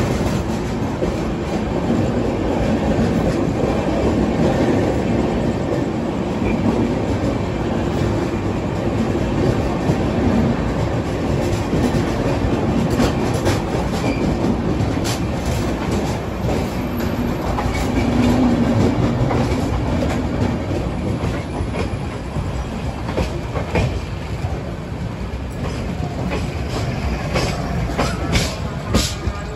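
Passenger train coaches rolling past close by: a steady rumble with the wheels clicking over the rail joints.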